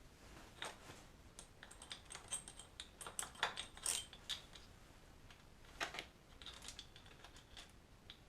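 Light metallic clinks and clicks of small tools and metal parts being handled, an irregular run of sharp taps that is busiest and loudest about three to four seconds in.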